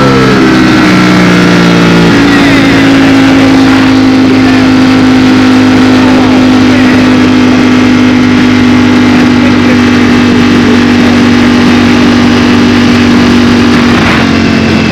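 Ducati Streetfighter V4 S's V4 engine under way at speed, with wind noise on the microphone. The engine pitch shifts in the first couple of seconds, then holds steady at cruise and dips slightly near the end.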